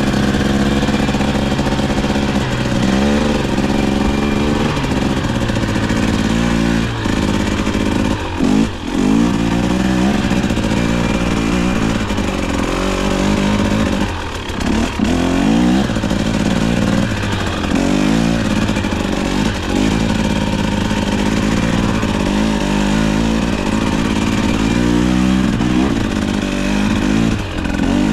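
KTM 250XC-W's single-cylinder two-stroke engine under riding, its pitch rising and falling over and over as the throttle is rolled on and off, with a couple of brief throttle chops.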